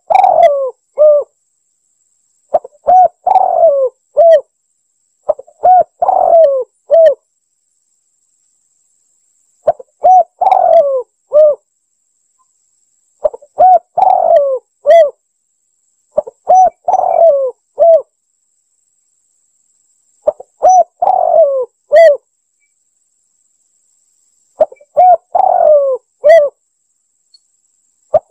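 Spotted dove (tekukur) cooing: about eight phrases of several low, hooked coo notes, each phrase about a second and a half long and repeated every three to four seconds with silence between. This is the dove's song played as a hunting lure call.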